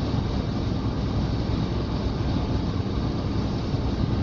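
Steady road and engine noise inside the cab of a Scania tractor unit pulling a tanker at cruising speed, an even low rumble with no changes.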